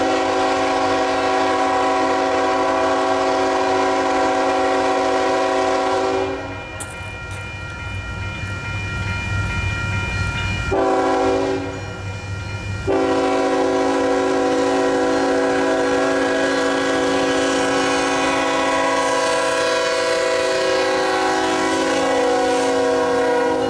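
CSX GE ET44AH locomotive horn sounding a chord of several notes: a long blast, a short blast about eleven seconds in, then a long blast to the end, in the long–short–long pattern of a grade-crossing signal. Between blasts the passing train rumbles.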